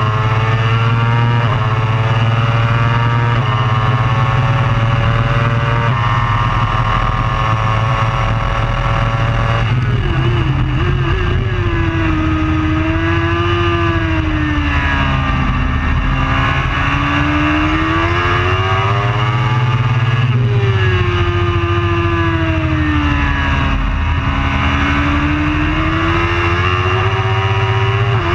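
Superbike racing engine at full throttle, climbing in pitch through three or four upshifts for about ten seconds. Then it drops off and the pitch sweeps down and back up twice as the bike slows for corners and accelerates out of them.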